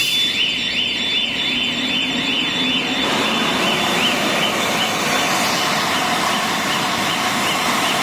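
Electronic warning siren warbling up and down about four times a second over a steady high tone. From about three seconds in, the running machinery of an aerosol filling line comes up beneath it.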